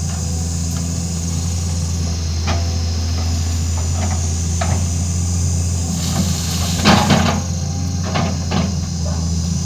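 Excavator's diesel engine running steadily, with several sharp knocks and clanks from the machine at work, the loudest about seven seconds in.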